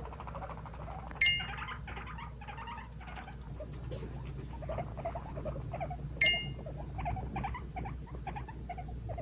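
Two guinea pigs squabbling, giving a run of quick, short squeaks, a sign of aggression as they fight over their house. Two sharp, ringing knocks stand out, about five seconds apart.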